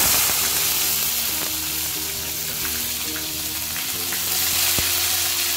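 Onion paste hitting hot oil in a kadai: a loud sizzle that starts suddenly and runs on steadily as the paste fries, with a single light knock near the end.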